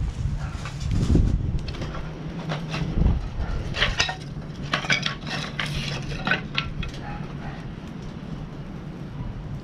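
Stainless steel parts of a hexagonal fire stand clinking and clattering as they are handled, in a run of sharp knocks over a few seconds, most of them in the middle of the stretch.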